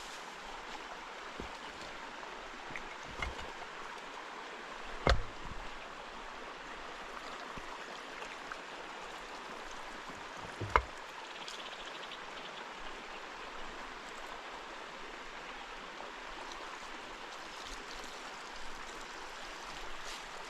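Steady rush of running water, with a sharp knock about five seconds in and another near the middle.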